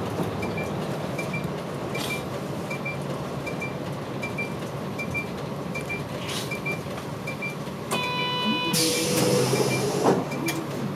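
Bus interior: the diesel engine runs with a steady drone while the turn-signal relay ticks about twice a second. Near the end a short electronic beep sounds, then a long hiss of released compressed air and a knock.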